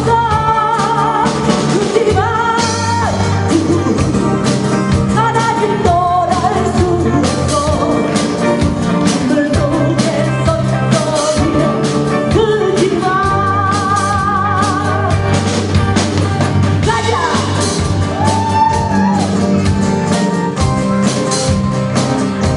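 Live rock-style band music: a singer holding long notes with vibrato over a steady drum-kit beat and bass.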